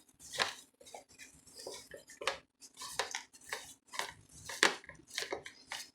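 Paper towel dabbing and rustling over a thawed raw chicken breast as it is dried off, heard as an irregular string of short soft taps and light clatters against the dish.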